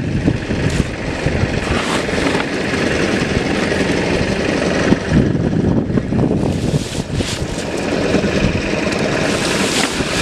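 Fishing boat's engine running steadily, mixed with wind and sea noise.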